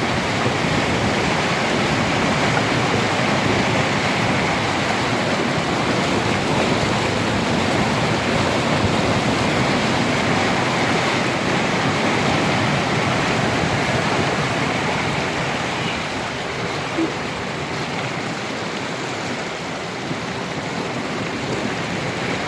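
Storm runoff flooding across a concrete parking lot, a steady rushing of flowing water.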